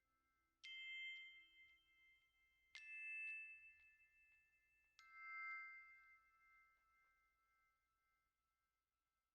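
Closing music ending on three bell-like chime notes struck about two seconds apart, each ringing on and slowly fading away.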